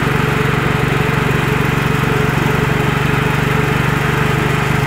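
Car engine idling steadily, heard from just above the open engine bay: an even low hum with a fast regular pulse.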